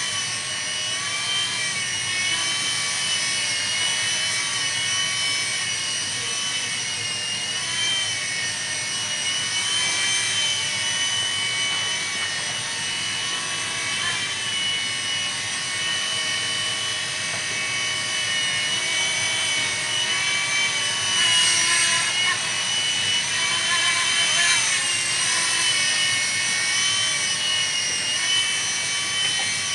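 Blade mSR micro helicopter in flight: its small brushed electric motors and rotors give a high whine that wavers up and down in pitch with the throttle. The sound is briefly louder twice a little past two-thirds of the way through.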